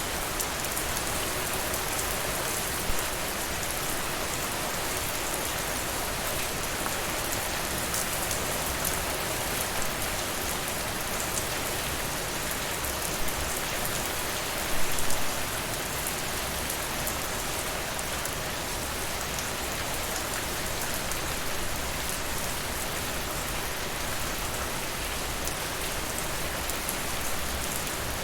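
Steady rain falling, mixed with the crackling of a wood fire in a fireplace; a few louder pops come about three seconds in and again around fifteen seconds.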